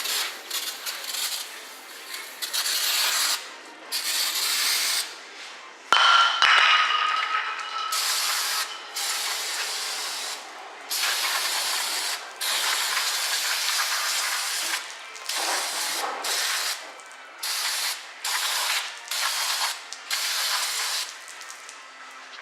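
Aerosol brake cleaner sprayed onto drum brake parts in about a dozen short bursts of hissing spray, each up to a couple of seconds long. One burst about six seconds in carries a brief whistling tone.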